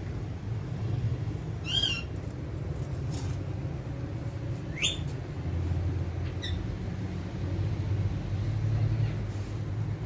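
Alexandrine parrots giving a few short calls: a wavering one about two seconds in, a rising one about halfway through and a fainter one soon after. A steady low rumble runs underneath, with a few brief clicks.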